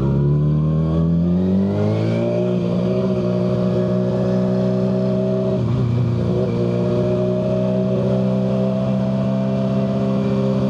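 Kawasaki ZX-6R 636 inline-four engine running through a Yoshimura full exhaust under way. The revs climb over the first few seconds, then hold steady, with a brief dip about six seconds in.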